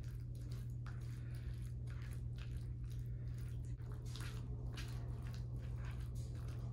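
Wet chewing and lip-smacking of a person eating mac and cheese, many short smacks in a row, over a steady low hum.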